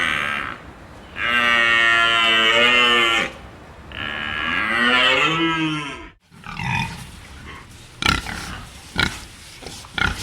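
Cattle mooing: three long, drawn-out calls. After an abrupt cut, a pig grunts in short bursts with sharp snorts about once a second.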